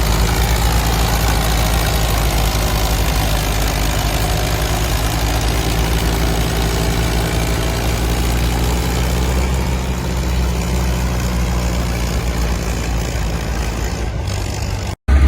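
Antique farm tractor engine running steadily, its pitch wavering slightly up and down. The sound breaks off abruptly for a moment near the end.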